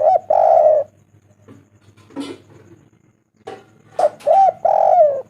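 Spotted dove (tekukur) cooing: two phrases, one at the start and one about four seconds in, each a short arched note followed by a longer drawn-out coo.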